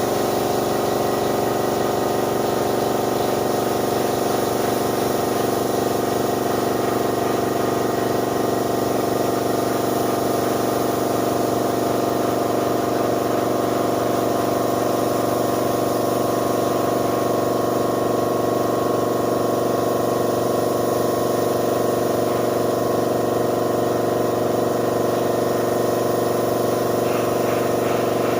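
A motor running steadily with a constant hum, unchanging in pitch and level.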